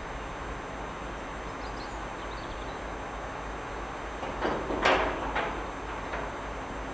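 Diesel multiple unit approaching slowly with a steady rumble, and a short run of sharp metallic clanks about four and a half seconds in.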